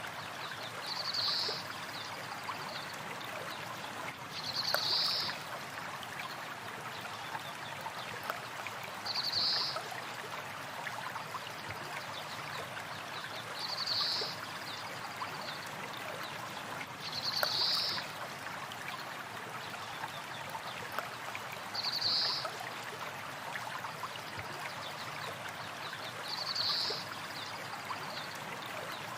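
Stream of water flowing steadily, with a short high bird call repeating about every four seconds, seven times in all.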